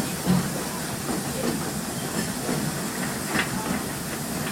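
Running noise of a narrow-gauge steam train heard from aboard a passenger car: a steady hiss and rumble with light clacking of wheels over the rails, and a sharper click about three and a half seconds in.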